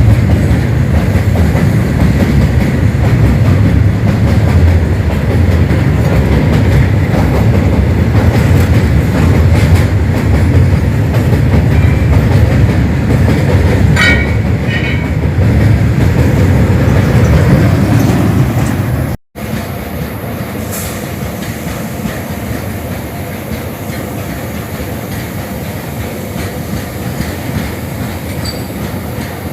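Freight train wagons rolling past: a loud, steady rumble of wheels on the rails, with a couple of short wheel squeals about halfway through. About two-thirds of the way in the sound cuts off abruptly and gives way to a quieter, steadier train noise.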